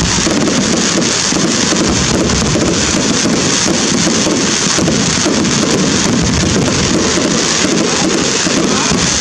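Fireworks display: a dense, steady crackle like heavy rain, with no single big bang standing out.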